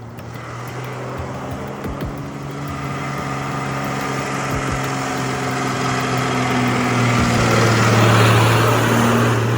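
A heavy vehicle's engine running with a steady hum, growing louder over several seconds as it comes closer and loudest near the end.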